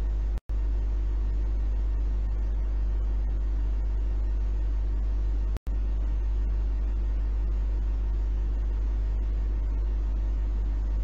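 A steady low hum with faint hiss behind it, with no thunder or rain to be heard. The sound drops out completely for an instant twice, about half a second in and near the middle.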